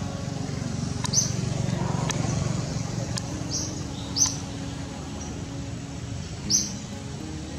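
A bird giving a short, sharp high chirp three times, a couple of seconds apart. Under it is a low rumble, strongest in the first few seconds, that then fades.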